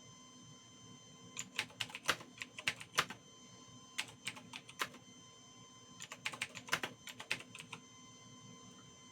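Keys being typed on a computer keyboard in three quick runs of clicks, over a faint steady electronic hum.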